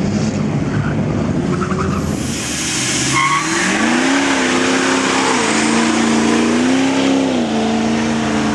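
A vehicle's engine revving hard while its tyres spin and squeal on the pavement, as in a burnout or donut. The engine note climbs about three and a half seconds in and is then held high, wavering as the throttle is worked, over a steady hiss of tyre noise.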